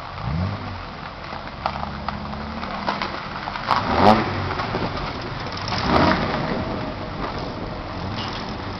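Car engines running in a car park: one engine revs up just after the start, and there are louder surges about four and six seconds in as a car moves off across the lot.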